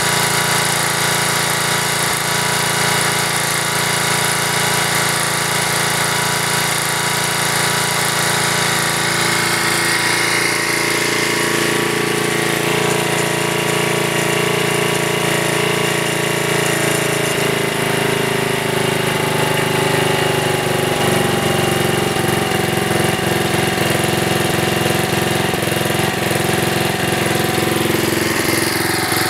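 1997 Snapper rear-engine riding mower's 8 HP Briggs & Stratton single-cylinder engine running steadily, its speed shifting slightly in the second half.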